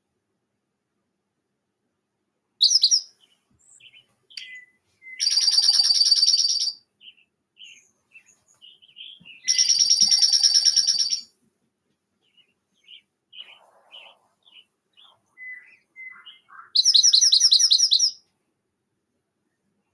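A songbird singing a rapid trilled song, about a second and a half long, three times, with a short burst before the first and soft chip-like notes in between.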